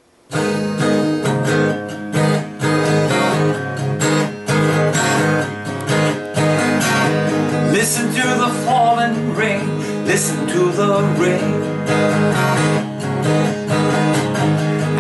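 Instrumental introduction of a song, led by strummed acoustic guitar, starting abruptly a moment in.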